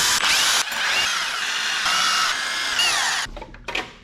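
Impact wrench hammering bolts loose on the engine's cylinder head, running almost without a break and with a whining pitch that sweeps as each bolt spins out. It stops a little after three seconds in, and a few light knocks follow as the bolts are handled.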